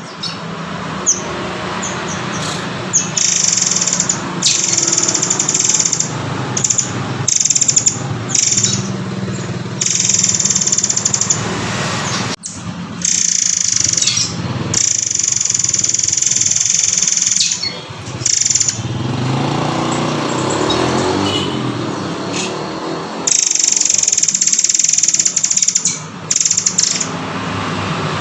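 Recorded calls of the murai air (murai kopi) songbird, played as a mastering track: long, high, hissing notes repeated over and over with short gaps between them, over a steady low hum.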